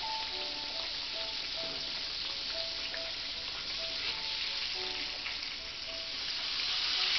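Pork chops frying in hot oil in a cast-iron skillet: a steady, dense sizzle.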